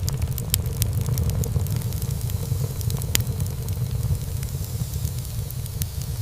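Wood fire in a fireplace crackling and popping over a steady low rumble of burning. The pops come thickest in the first second and a half, with one sharper pop about three seconds in.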